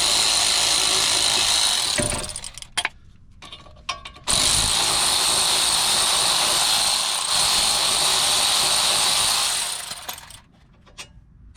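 Power wrench spinning out the 17 mm front caliper bracket bolts on a Toyota Corolla: two steady runs, a short one and then a longer one of about six seconds, with a few clicks and taps between them.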